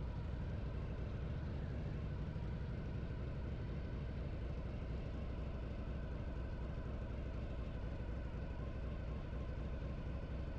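Harley-Davidson V-twin motorcycle engine running at a steady speed while riding, a continuous low drone with no change in revs.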